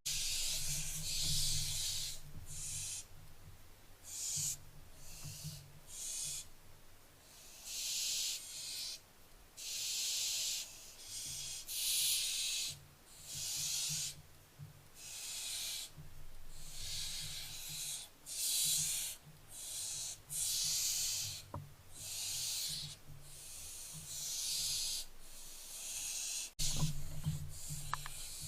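Barn owl chicks giving repeated rasping hisses, the food-begging 'snore' call, one after another about every second, over a low steady hum.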